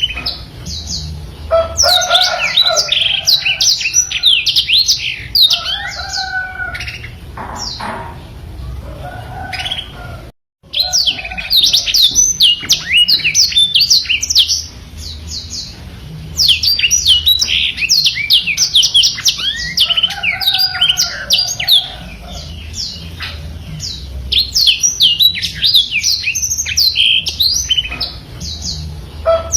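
Black-throated canary (blackthroat) singing continuous, rolling song made of rapid runs of sharp, high, downward-slurred notes with lower warbled phrases mixed in. The song eases briefly a couple of times, and the sound cuts out for an instant about ten seconds in.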